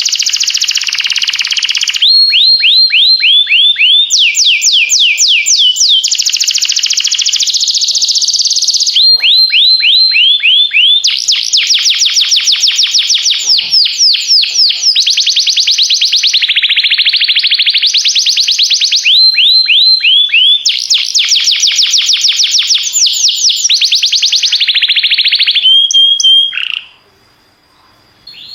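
Domestic canary singing: fast trills of rapidly repeated sweeping notes, switching to a new trill every second or two. The song ends with a short held note and then stops about two seconds before the end.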